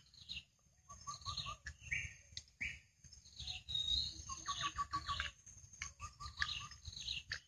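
Wild birds chirping and calling, with several short runs of quick repeated notes and a few higher whistled chirps.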